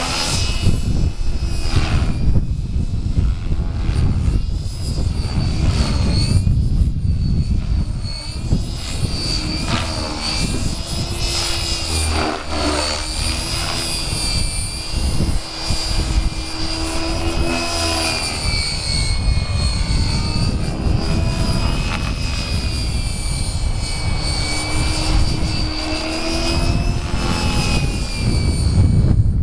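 Electric RC helicopter (Gaui X5) in flight: a steady high motor and gear whine with the rotor's hum over a low rumble. The pitch wavers up and down as it is flown.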